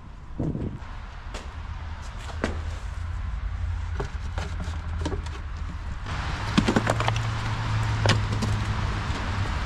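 A car's V8 engine running, with wind buffeting the microphone and scattered clicks. About six seconds in, the engine note rises a little and the noise grows louder.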